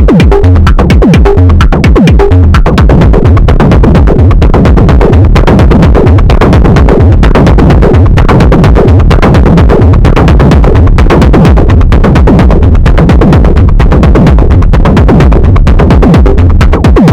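Live analogue techno from a Moog DFAM drum synthesizer and an Arturia MicroFreak synthesizer: a loud, driving, evenly repeating percussion pattern over deep bass, with falling synth pitch sweeps in the first couple of seconds.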